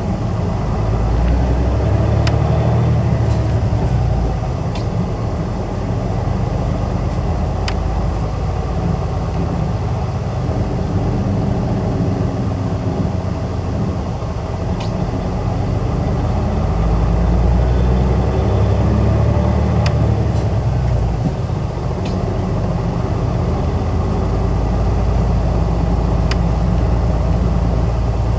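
Inside an Isuzu Erga diesel city bus on the move: the engine runs steadily and pulls harder twice, about a second in and again near the middle, with scattered light clicks and rattles from the cabin.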